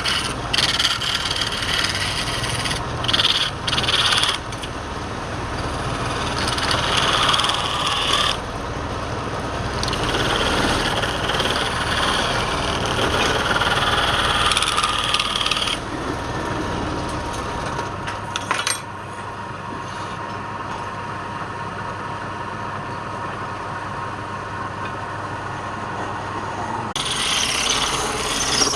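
Wood lathe running, with a turning tool or abrasive scraping against the spinning wood: a continuous rasping noise over a steady low motor hum. The sound changes abruptly several times.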